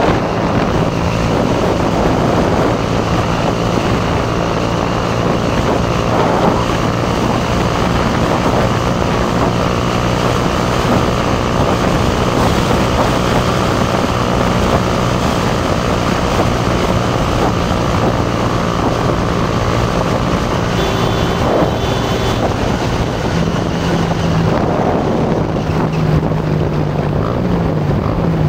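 Motorcycle engine running at steady revs under a constant rush of wind noise while riding; near the end the engine pitch wavers up and down.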